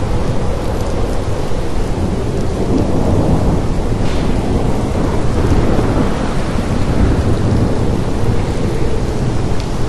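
Steady rain falling, a continuous hiss with a heavy low rumble underneath, as in a thunderstorm.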